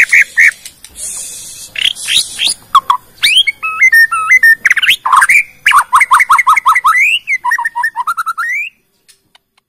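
White-rumped shama (Borneo murai batu) singing a fast, varied song of clear whistles, rising slurs and rapid repeated two-note phrases, showing off its mimicked repertoire. A harsh hissing note comes about a second in. The song stops abruptly about a second before the end.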